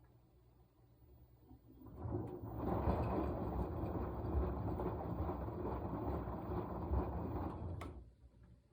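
Washing machine drum turning in the wash cycle. About two seconds in the motor starts and the drum turns the load for about six seconds, then it stops abruptly with a click.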